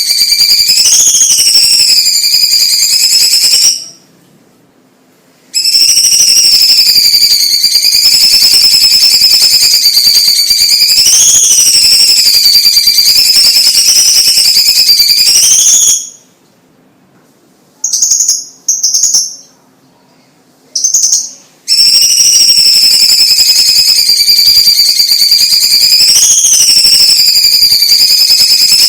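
Cucak cungkok singing long, continuous high whistled phrases that waver slightly in pitch. The song breaks off briefly about 4 s in, then pauses again for several seconds from about 16 s, when only a few short notes sound.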